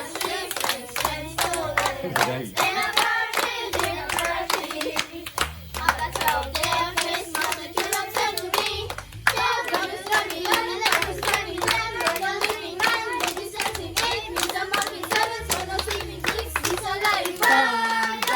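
Group of children singing a Christmas carol, with rhythmic clapping keeping the beat.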